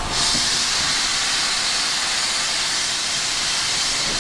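Steam escaping from LMS Black Five 4-6-0 steam locomotive 44932 in a loud, steady high hiss that starts suddenly and cuts off about four seconds later.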